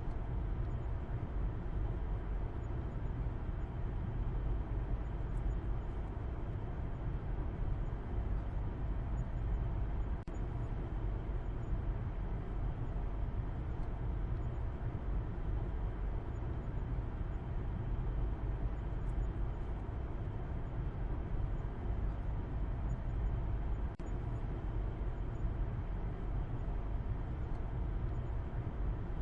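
Steady low rumble of a car driving at a constant speed, road and engine noise blended into an even drone. It dips briefly twice.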